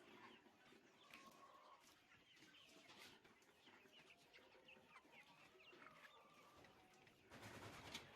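A flock of poultry clucking and calling, many short calls overlapping. A brief burst of noise comes near the end.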